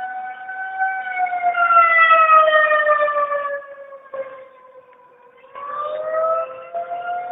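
Outdoor tornado warning siren wailing: the tone holds, then falls slowly in pitch and fades, and about five and a half seconds in it rises back up and grows louder again. A second, steadier siren tone runs underneath.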